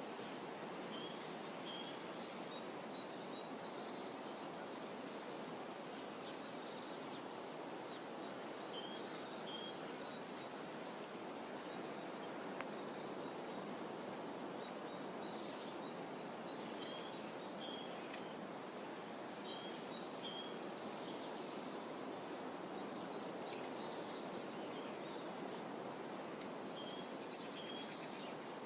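Small birds chirping in short, repeated twittering phrases over a steady soft hiss of outdoor ambience.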